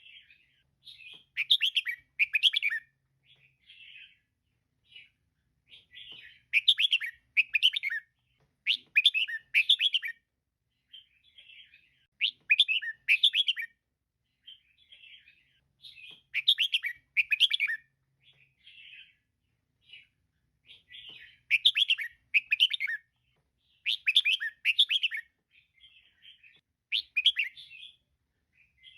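Female red-whiskered bulbul calling: quick, bright chirping phrases in loud clusters every few seconds, with softer chirps and short pauses between.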